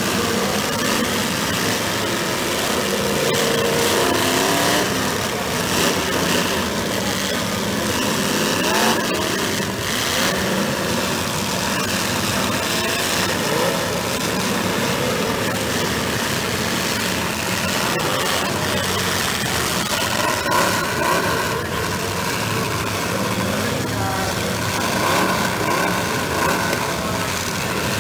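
Several demolition derby cars' engines running and revving at once, their pitches overlapping and rising and falling unevenly over a steady, dense noise.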